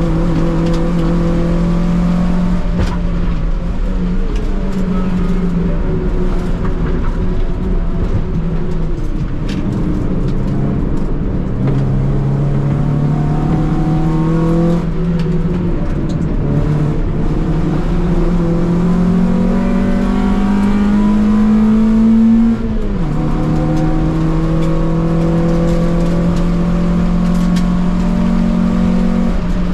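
Honda EK Civic's D-series four-cylinder engine, heard from inside the cabin under hard track driving, its note rising and falling with throttle and gear changes. A long climb in pitch about twenty seconds in ends in a sudden drop at an upshift.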